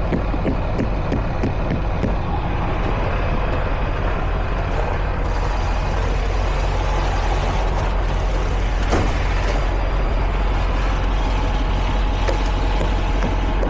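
Semi truck's diesel engine running steadily at a low, even pitch, with a single sharp click about nine seconds in.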